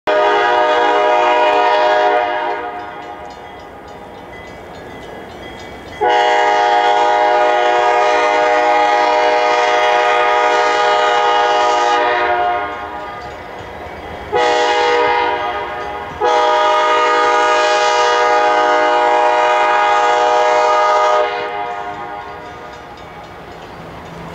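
ALCO diesel locomotive's multi-chime air horn blowing four blasts, long, long, short, long: the grade-crossing warning signal. Between the blasts the train's rumble carries on underneath.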